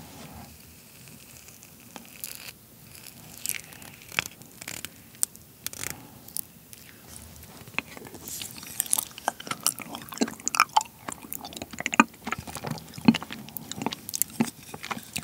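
Close-miked eating of a frozen seedless persimmon: a spoon scooping the icy flesh, then wet chewing and mouth clicks that grow busier and louder from about eight seconds in. The half-thawed flesh chews sticky rather than crunching like sherbet.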